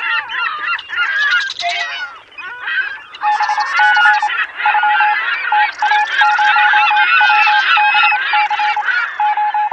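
A flock of geese honking, many short calls overlapping, used as a sound effect. From about three seconds in, a single-pitched electronic beep pulses on and off over the flock.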